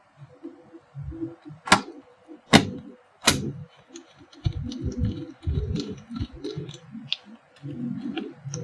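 Hard parts of an electric iron clicking and knocking as they are handled and pushed together to fit a part back in place, with three sharp clicks in the first few seconds and softer knocks and rubbing throughout.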